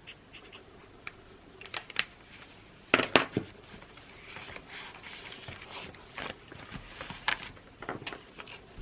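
Writing at a desk: pen scratching on paper, with scattered sharp clicks and taps. The loudest is a quick cluster of clicks about three seconds in.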